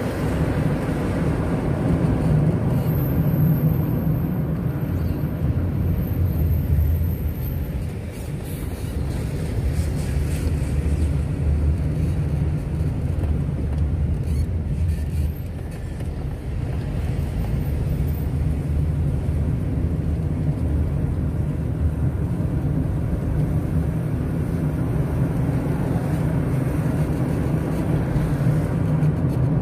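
Steady road noise of a moving car: a low engine and tyre rumble, easing briefly about eight and again about fifteen seconds in.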